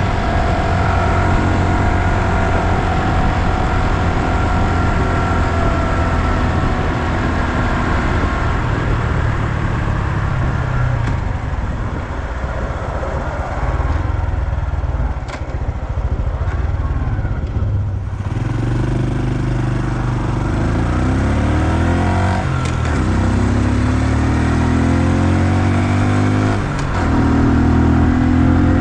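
2020 Honda Super Cub's 125 cc single-cylinder engine running under way, easing off in the middle, then accelerating with its pitch climbing and dropping back twice at gear changes.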